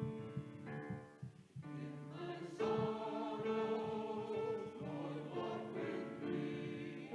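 Church offertory music: instrumental notes, a brief quiet dip, then voices singing with accompaniment from about two and a half seconds in.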